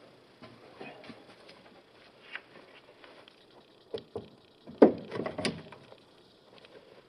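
A few knocks and a short clatter of hard parts being handled, the loudest a sharp knock about five seconds in, typical of the steel wings being slid into place where the truck box's tailgate was.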